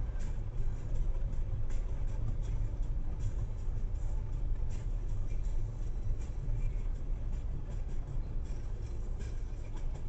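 Steady low rumble of a car driving, picked up by a dashcam inside the car, with a few faint clicks and rattles scattered through it.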